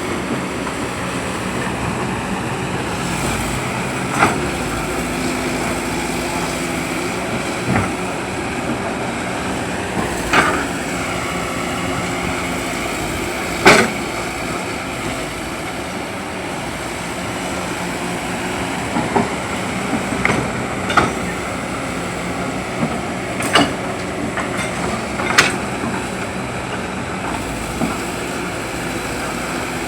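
Hydraulic excavator's diesel engine running steadily, with a few sharp knocks at irregular intervals, the loudest about halfway through.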